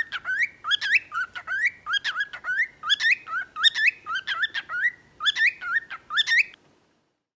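Cockatiel chirping a fast series of short rising whistled notes, about three a second, stopping about six and a half seconds in.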